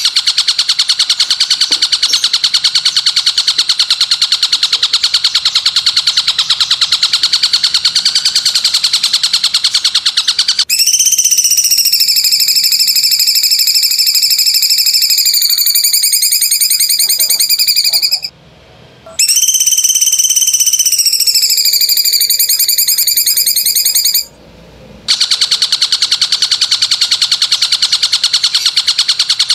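Song-training recording of wild calls: a loud, very fast buzzing trill. About ten seconds in it gives way to two long, steady, high whistled notes, each several seconds long and ending abruptly, and then the buzzing trill returns.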